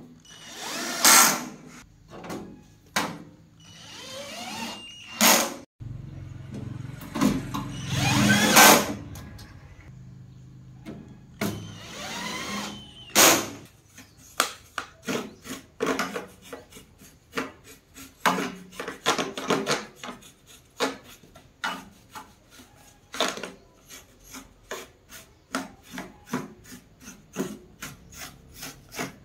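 Hand scraping or rubbing on a hard surface: several longer noisy strokes, then, about fourteen seconds in, a long run of quick short strokes.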